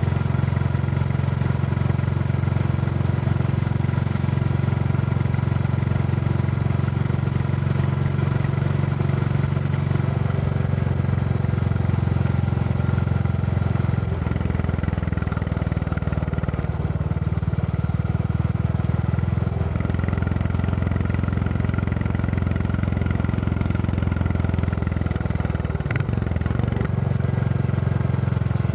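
Royal Enfield Classic 350's single-cylinder engine running under way, with its steady thump, heard from on the moving bike. The note changes briefly about halfway through, again a few seconds later, and once more near the end.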